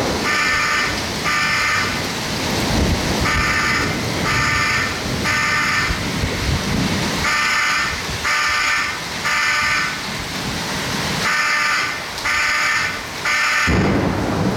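Building fire alarm tripped by the storm, sounding in repeated sets of three beeps about every four seconds. Underneath are heavy wind, rain and rumbling thunder.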